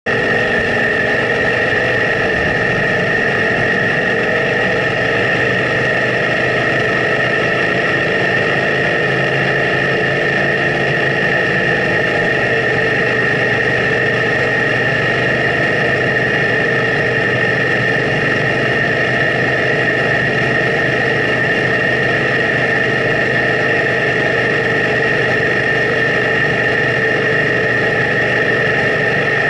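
BMW C650 Sport maxi-scooter's parallel-twin engine running at an unchanging pace, with a steady high whine over it.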